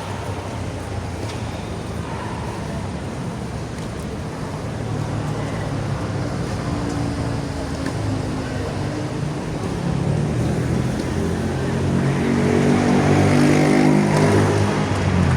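A motor vehicle's engine running steadily, growing louder over the last few seconds as it comes closer.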